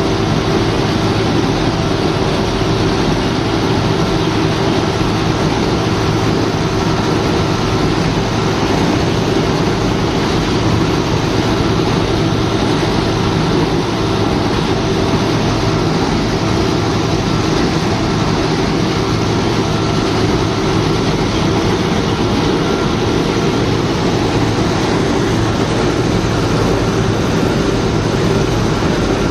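Giant mining excavator's machinery running steadily: a loud, even drone with a faint steady whine above it.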